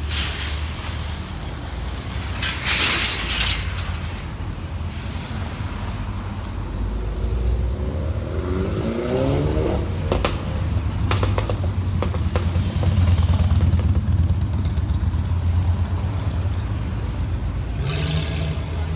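Car engines running at street level as a low, steady rumble that swells in the middle, with one engine's pitch gliding up and down about eight to ten seconds in.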